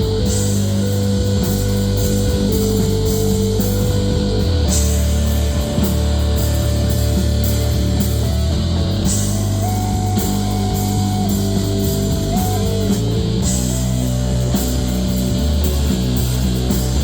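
Rock band playing live without vocals: electric guitar, bass and drum kit, with a held guitar melody line that steps up and back down in pitch and a cymbal crash about every four and a half seconds.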